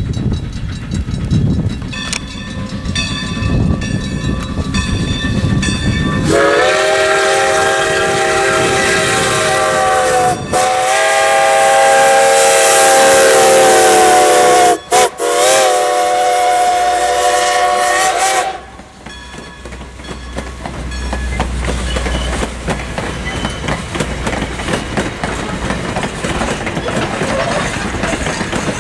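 Steam locomotive whistle blowing a long, loud, chord-like blast of about twelve seconds, broken once briefly and then by two quick cuts near the end. Before and after it comes the rumble and clatter of the train running on the rails.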